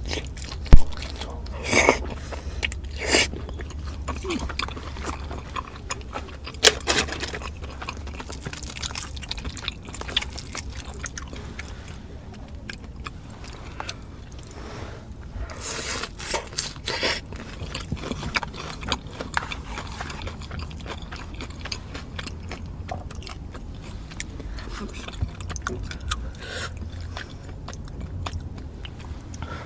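A person taking big bites of food and chewing close to the microphone: irregular crunches and wet mouth clicks, the sharpest just under a second in, over a steady low hum.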